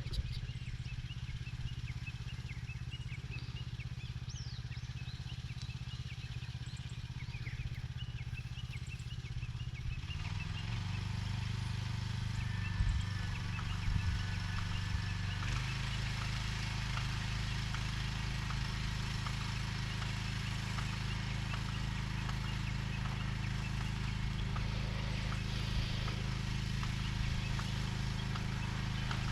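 Small engine of a vegetable transplanter running steadily; its note shifts about ten seconds in and again about five seconds later.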